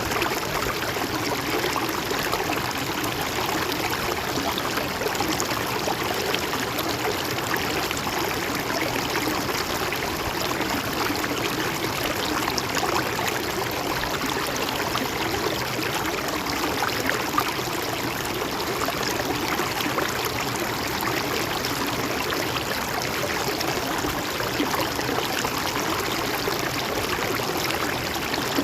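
Water of a gently flowing river running steadily over stones, a continuous rushing and trickling with small splashes and gurgles throughout.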